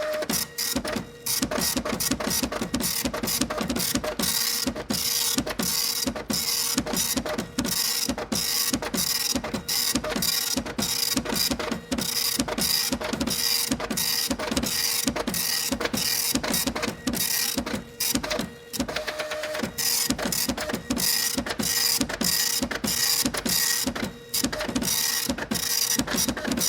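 Typewriter keys being typed in a fast, continuous run of clacks, several a second, with a few brief pauses. A faint steady hum runs underneath.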